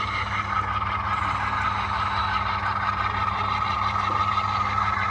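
Model diesel locomotive running on the layout, its sound decoder playing a steady diesel engine drone through the loco's small speaker.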